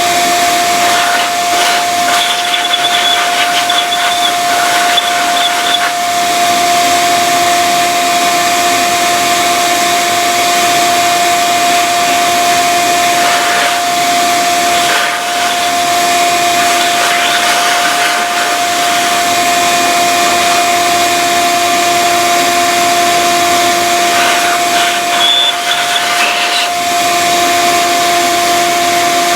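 Steady whir of an electric motor, with a constant hum-like tone, running without a break.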